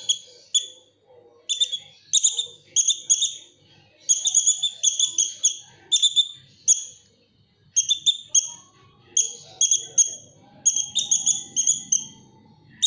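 Lovebird chirping: short, shrill, high-pitched notes repeated in quick runs of several a second, with brief pauses between runs.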